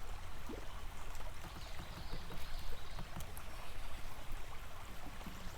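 Running river water, a steady splashing trickle, with a low rumble underneath.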